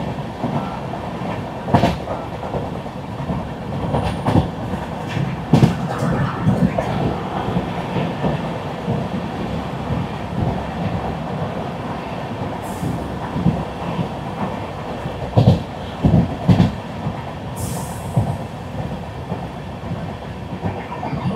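Express train running along the track, heard from inside the passenger coach: a steady rumble of wheels on rail with irregular clicks and clacks over the rail joints, and a few louder knocks about three-quarters of the way in. Two brief high hisses come and go in the second half.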